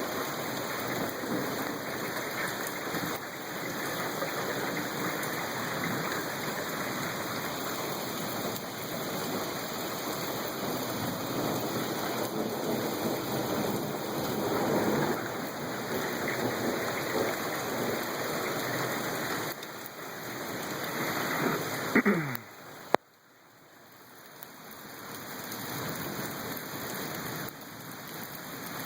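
Heavy rain falling steadily. About three-quarters of the way in, a short falling tone and a sharp click, after which the rain sound drops away abruptly and slowly builds back up.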